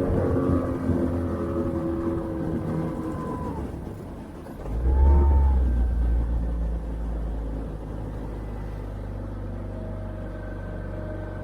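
Small outboard motor on a jon boat running and easing off, its pitch falling over the first few seconds. About five seconds in a loud low rumble swells, then settles into a steady low hum.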